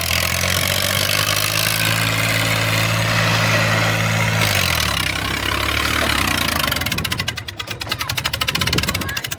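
Eicher 333 tractor's diesel engine running steadily. About four and a half seconds in, its pitch drops, and over the last two seconds it settles into a rapid, even pulsing beat.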